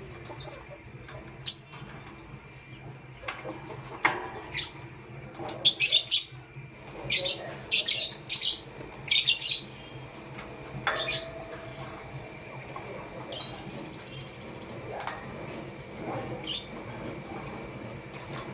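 Lovebirds chirping: short, sharp, high chirps scattered through, with a quick run of them in the middle, over a steady low hum.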